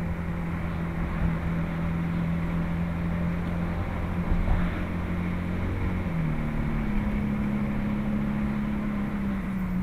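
Ferrari F430's 4.3-litre V8 running at low, steady revs while cruising, heard from inside the cabin. About six seconds in, the engine note steps up a little in pitch and holds there.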